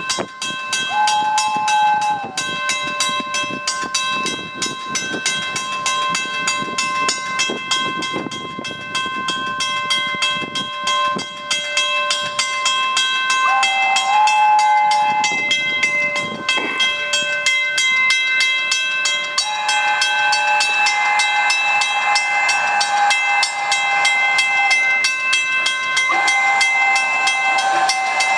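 Steam locomotive running, with a fast, even chuff of exhaust beats and hissing steam. Its whistle sounds several times, each blast sliding up as it opens, over steady ringing tones.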